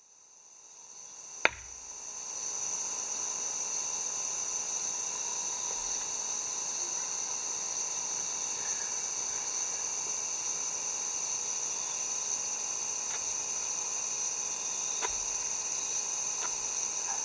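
Steady chorus of insects, a high even buzz, fading in over the first two seconds after a single sharp knock; a few faint ticks later on.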